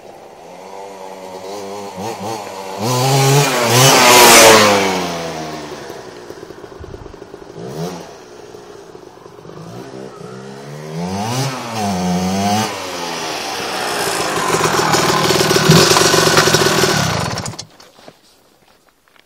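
Kawasaki KMX 125's two-stroke single-cylinder engine through its original exhaust pipe, revved up and down in several swells: a big rise and fall, a short blip, another rise and fall, then a long high-revving stretch. The sound cuts off sharply near the end.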